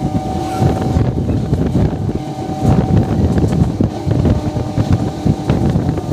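MEMU electric multiple-unit train running at speed, heard from an open doorway: a heavy rumble of wheels on the rails with scattered clicks, and wind buffeting the microphone. A steady high whine fades out about two seconds in.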